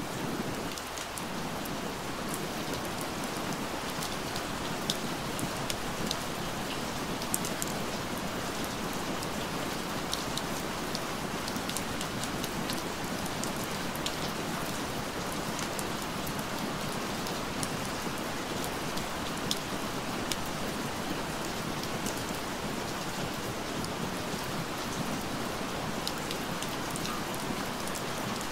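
Steady rain falling, an even hiss with scattered sharp drop ticks, laid down as the cover sound of a subliminal audio track.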